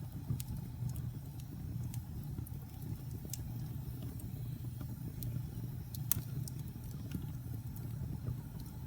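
Wood fire burning in a fireplace: a steady low rumble of flames with scattered sharp crackles and pops, the loudest about six seconds in.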